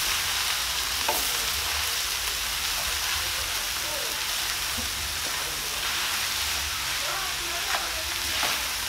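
Minced meat, potatoes and onions sizzling steadily in a stainless steel pan, stirred now and then with a wooden spoon.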